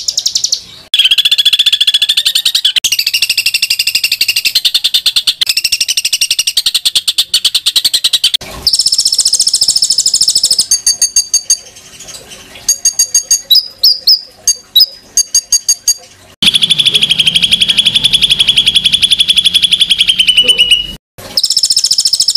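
Songbird song of harsh, rapid trills: long buzzing trills held for several seconds each, with a stretch of quick, separate chirps in the middle. Near the end a trill cuts off abruptly and another starts. This is the 'tembakan kasar' kind of song used as a masteran to teach competition songbirds.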